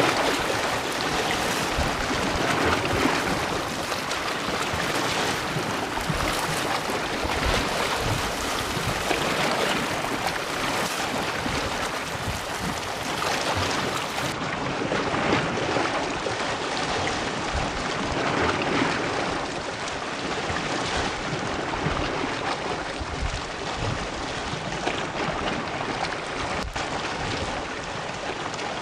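Sea waves washing onto a beach: continuous surf that swells and eases every two to three seconds.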